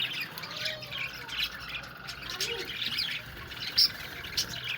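A flock of budgerigars chattering: many quick overlapping chirps and warbles, with one sharp, louder squawk a little before the end.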